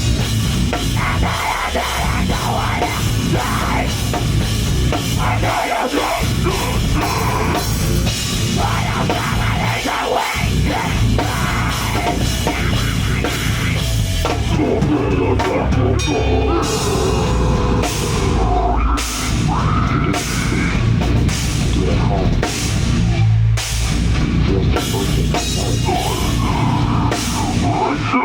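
Heavy metal band playing live at full volume: distorted guitars and bass over a pounding drum kit with cymbals. The second half settles into heavy, evenly spaced hits.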